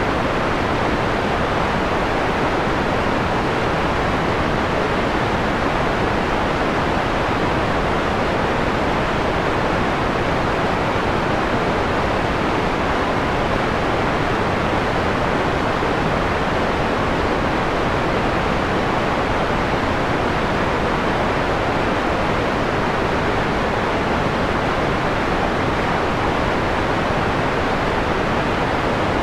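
Steady generated white noise, filtered to a mellow, darker hiss with little of the bright top end. It holds even, with no changes.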